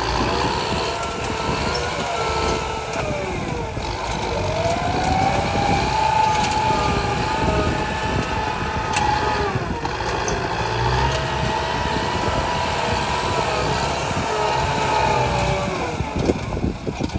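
Truck engine running under load, its pitch dipping and rising again every few seconds as the revs change.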